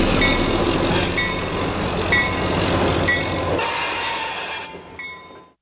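Diesel locomotive passing close by with its train, engine and wheel noise, with a short ringing tone about once a second. The sound fades out near the end.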